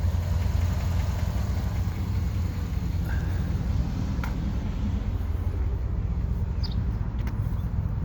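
Chevrolet Avalanche pickup's engine idling steadily, a low even rumble heard from close by outside the truck.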